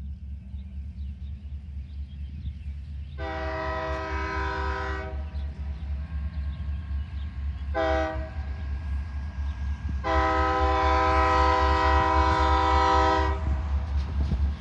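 Diesel locomotive multi-chime air horn sounding a long blast, a short one and another long one over the steady low rumble of the EMD diesel locomotives: the closing part of the long-long-short-long grade crossing signal.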